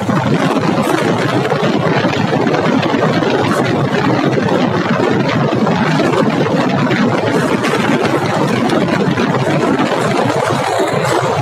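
Motorcycle on the move, its engine running under a loud, steady rush of wind and road noise.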